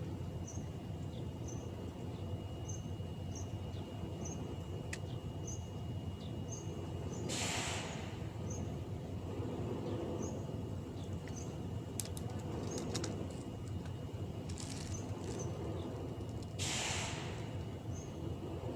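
Open-air ambience at a pier: a steady low rumble with short high chirps repeating roughly once a second, and two brief hissing bursts about a third of the way in and near the end.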